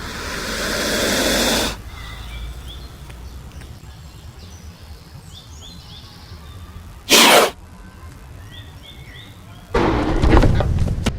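A loud hiss lasting about a second and a half, then faint short bird-like chirps over background noise, a brief sharp hiss about seven seconds in, and a loud rumbling noise starting near the end.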